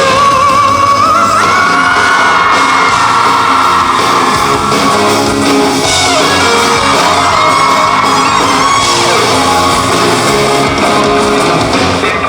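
Live rock band playing an instrumental passage, with long held melody notes over the band, and the audience yelling in a large concert hall.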